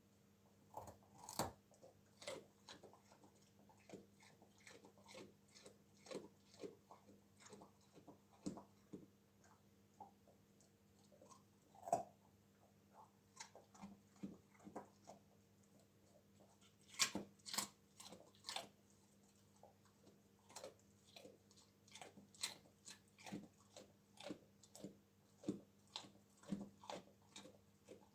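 A dog crunching and chewing raw carrot: irregular crisp bites a second or so apart, with tighter clusters of louder crunches near the start, around the middle and again a little later.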